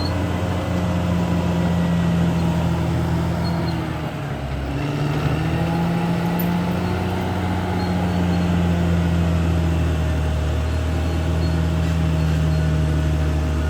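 Caterpillar D6R XL bulldozer's diesel engine running steadily under load. Its note dips briefly about four seconds in, then picks up again.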